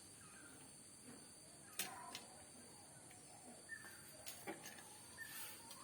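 Near silence: faint background hiss with a few light clicks.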